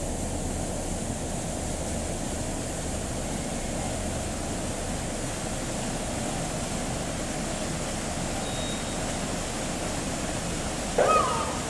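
Steady rushing background noise, with one short, loud call falling in pitch near the end, typical of a wading bird's call.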